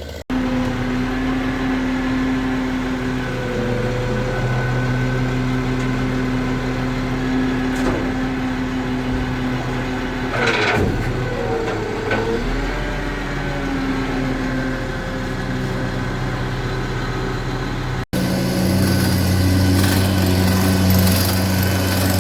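An engine idling with a steady, even hum. The sound drops out for an instant just after the start and again near the end.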